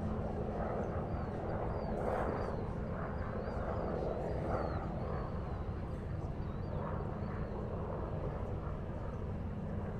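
Harbour ambience: a steady low rumble of distant engines, with a faint hum and faint high chirping over it.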